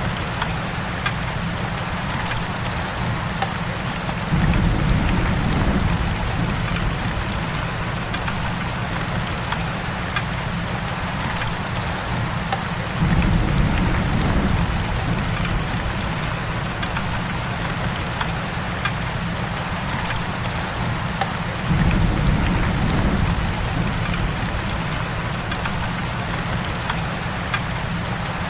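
Heavy rain falling steadily, an even hiss with scattered drop ticks. A low rumble swells up and fades three times, about nine seconds apart.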